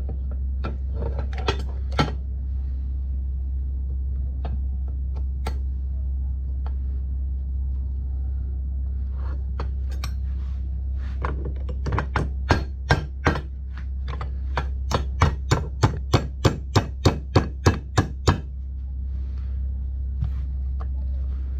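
Hammer blows during an ATV wheel-bearing job: a few scattered knocks, then a short run of strikes and a longer steady run of about three blows a second, over a constant low hum.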